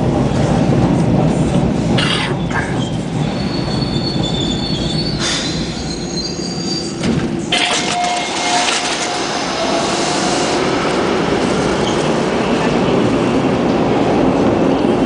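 Hawker Siddeley H4 subway car running along the track, heard from inside the car: a steady rumble with a few sharp clacks over rail joints. Thin, high wheel squeals come and go through the middle.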